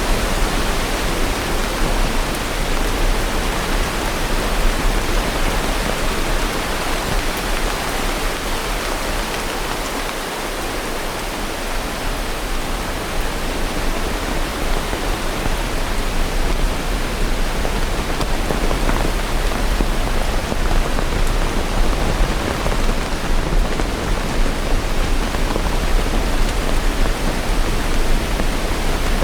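Steady heavy rain, a dense even hiss with no separate drops standing out, easing slightly about ten seconds in and building back.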